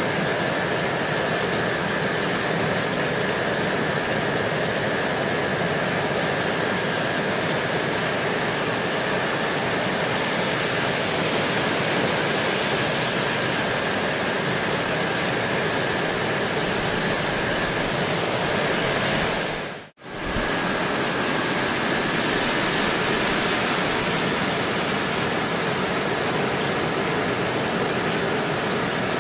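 Steady rainfall: a dense, even hiss of rain. It fades out to a moment of silence about two-thirds of the way through, then comes straight back.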